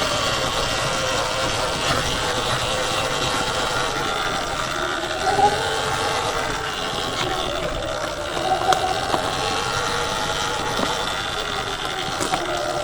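Sur-Ron Ultra Bee electric dirt bike under way: its motor whine rises and falls with the throttle over a steady rushing noise. There are a few light ticks and knocks along the way.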